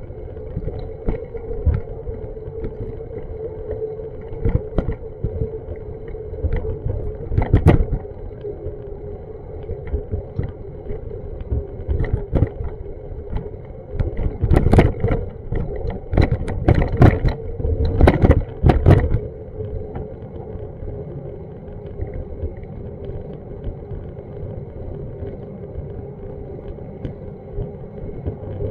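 Outdoor street ambience: a steady low rumble with a hum, regular soft knocks about twice a second, and a cluster of louder knocks a little past halfway through.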